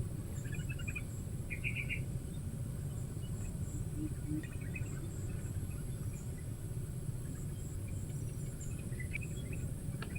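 Steady high-pitched drone of insects with a few short bird chirps scattered through it, over a low steady rumble.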